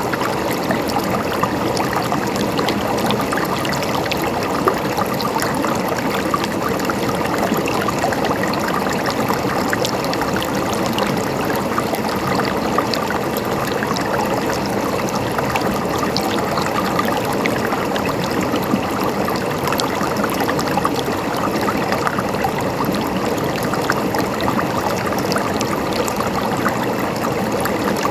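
Mountain stream babbling and trickling steadily over rocks, an even flow with small splashes throughout.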